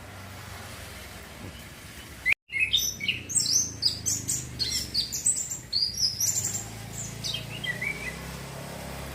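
Young male orange-headed thrush practising its song: after a brief dropout about two seconds in, a run of rapid, loud, high chirps and short falling notes lasting about five seconds, then only a low steady hum.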